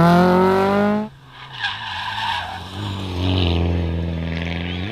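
Rally car engine at full throttle, rising in pitch, cutting off abruptly about a second in. It is followed by quieter tyre squeal and engine noise from a car sliding through a corner.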